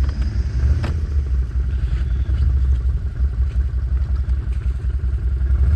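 ATV engine running steadily, with a single sharp click about a second in.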